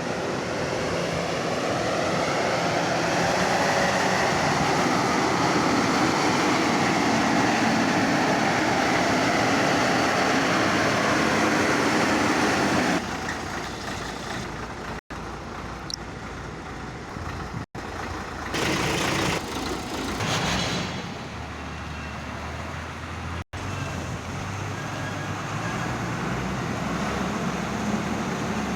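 Ashok Leyland 2214 cargo truck's diesel engine running steadily, loudest for the first dozen seconds, then quieter, with the sound breaking off for an instant three times.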